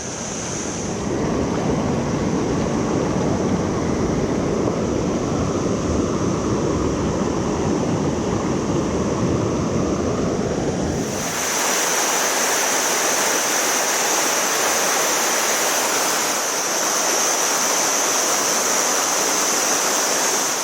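Steady rush of a mountain stream's flowing water. About halfway through, the sound changes abruptly from a deep, low rumble to a brighter, hissier rush.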